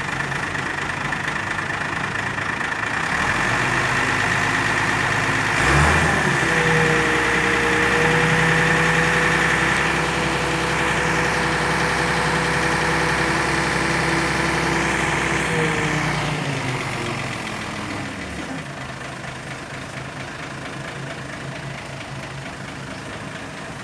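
A vehicle engine running steadily, louder from about three seconds in. A sharp knock comes near six seconds, and a steady whine over the engine sound lasts until about sixteen seconds, after which the engine drops back to a lower drone.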